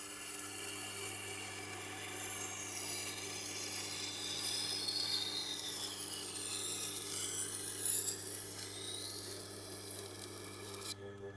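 Steel knife blade being ground on the rotating wheel of a Tormek sharpener: a continuous abrasive scrape that starts suddenly and cuts off near the end, its high pitch sweeping as the blade is drawn across the wheel. The machine's motor hums faintly underneath.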